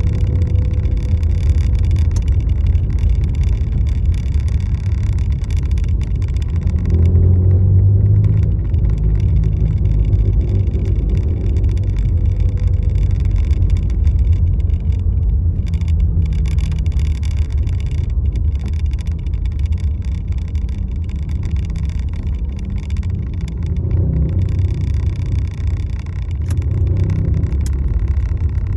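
A car on the move: a steady low rumble of engine and road noise that swells briefly about seven seconds in and again near the end.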